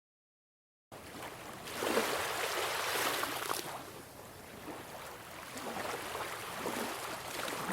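Rushing water sound that starts abruptly about a second in after silence, swelling and ebbing like surging waves.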